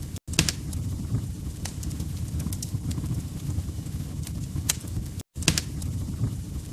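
Wood fire crackling in a fireplace: irregular sharp pops and snaps over a steady low rumble of burning. The sound cuts out completely twice, for a split second each time, about a quarter second in and about five seconds in.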